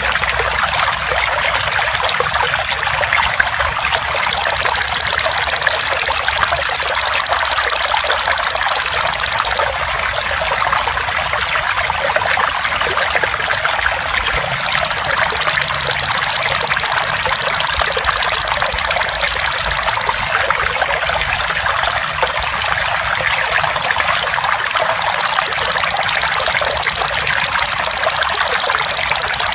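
Trickling, gurgling water runs steadily. Over it, a golden grasshopper (belalang emas) sounds a loud, shrill, high-pitched trill in three bursts of about five seconds each: about 4 s in, about 15 s in, and about 25 s in, lasting to the end.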